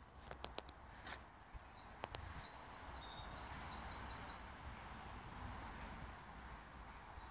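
Small songbird singing a burst of quick, high chirps and trills for a few seconds over steady outdoor background noise, with a few sharp clicks in the first second.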